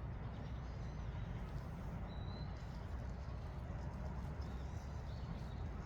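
Outdoor park ambience: a steady low rumble with a faint bird chirp about two seconds in.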